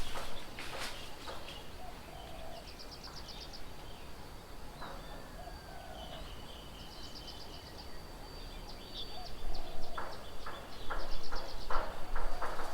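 Birds calling at a garden bird table: three short, rapid trills over a steady high tone, with a run of sharp taps and knocks in the second half.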